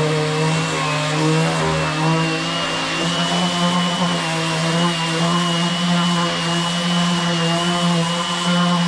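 Electric sander running steadily on wood together with a DeWalt Flexvolt dust extractor: a constant motor hum with a thin high whine over it.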